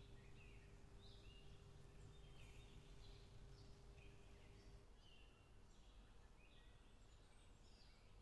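Near silence with faint birds chirping, short high calls repeating about once a second, over a low steady hum that stops about five seconds in.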